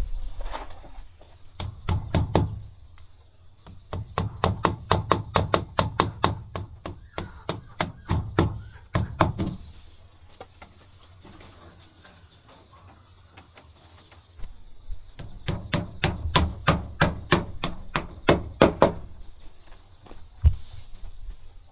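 Rapid repeated blows on wood, about three to four a second, in three runs separated by short pauses, with one last single thud near the end.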